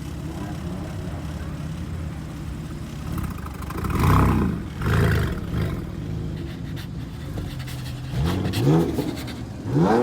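Car engine running steadily, blipped up in revs a few times: two louder swells about four and five seconds in, then three quick rising revs near the end.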